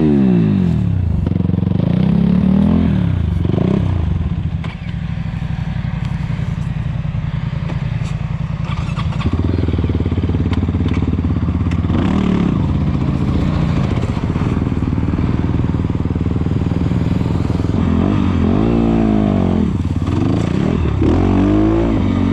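250 cc fuel-injected dirt bike engine being ridden, revving up and down through the gears. It settles into a steadier, lower run from about four to nine seconds in, then picks up again.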